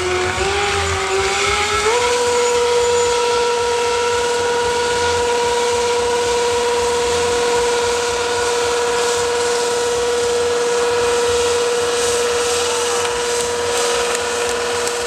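Stunt motorcycle engine revving hard during a drift: the pitch wavers for about two seconds, then rises and holds at one steady high note for the rest.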